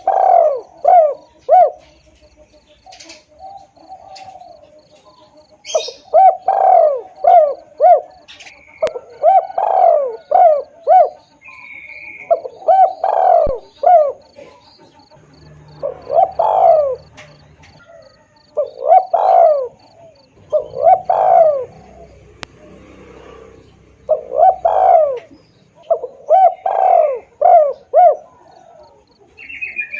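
Spotted dove (tekukur) cooing as a lure call, in repeated phrases of three to five coos every two to three seconds. Faint higher bird chirps and a steady rapid high ticking run underneath.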